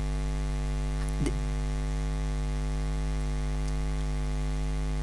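Steady electrical hum with many overtones, unchanging throughout, with one brief faint blip about a second in.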